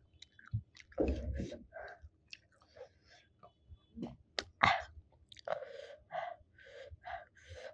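Close-miked chewing and wet mouth smacks of a person eating rice and curry by hand, in irregular bursts, with a heavier burst about a second in and a sharp click about halfway through.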